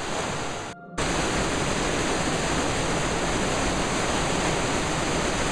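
Rushing river water in a gorge, the Radovna flowing over rocks: a steady, dense rush. It drops out for a moment just under a second in, then comes back a little louder.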